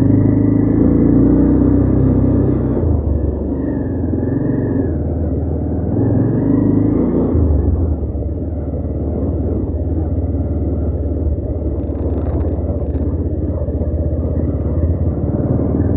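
Motorcycle engine running while riding, its pitch rising and falling with the throttle. A short burst of clicks comes about twelve seconds in.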